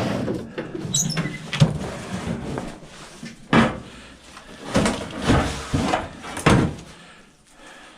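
Clunks and scrapes of an old Amana Radarange microwave's metal casing being handled and turned while it is taken apart, with about half a dozen sharp knocks between one and six and a half seconds in.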